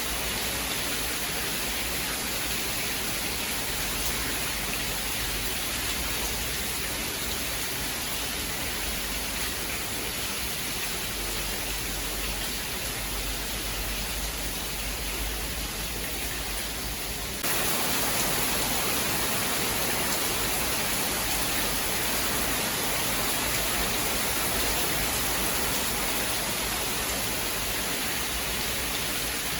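Steady heavy rain, an even hiss with no thunder heard. It turns suddenly a little louder and brighter a bit past halfway and stays so.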